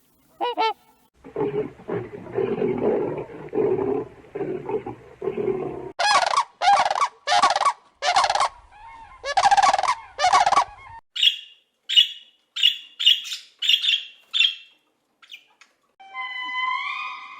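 A string of different bird calls, one kind after another. A single honk comes first, then several seconds of low, rough, pulsing calls and a run of loud honking calls. These give way to a series of short, high chirps. Near the end a gliding, wavering whistle-like tone begins.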